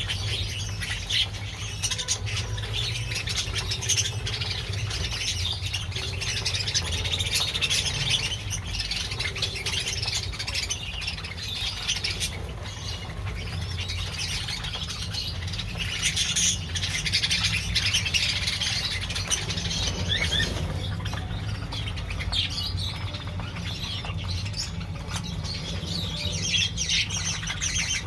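A colony of budgerigars chattering and squawking continuously, many birds calling over one another.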